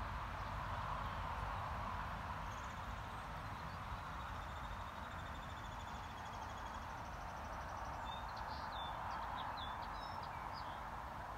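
Faint birdsong over steady outdoor background noise, with a low rumble under it: a quick trill in the first half and a few short chirps near the end.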